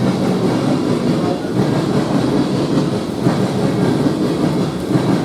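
A train rolling past on the rails: a steady, loud rumble of wheels on track.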